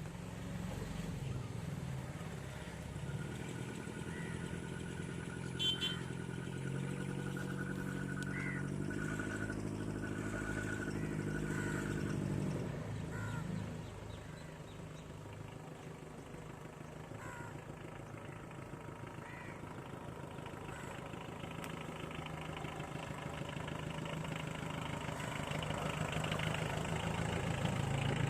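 Premier Padmini's diesel engine running as the car is driven. Its note steps up twice, about 3 and 9 seconds in, and drops away about 12 seconds in. After that a steady engine and road noise slowly grows louder.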